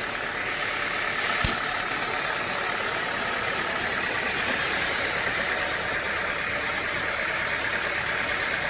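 Sawmill machinery running steadily with an engine-like drone, and one sharp knock about a second and a half in.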